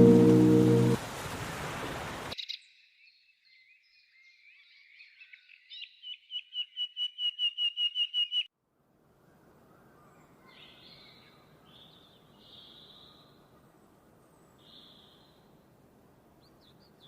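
A songbird singing: high warbling notes, then a fast trill of repeated notes that grows louder and cuts off suddenly. Music and a rain-like hiss end about two seconds in, and a few faint chirps follow over soft background noise.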